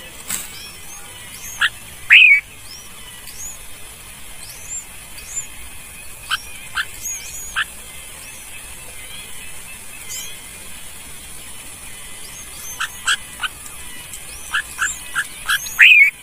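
Small birds calling: a scatter of short, thin, high chirps throughout, with quick series of sharper chirps in the middle and toward the end. Two louder squeaky calls come about two seconds in and just before the end.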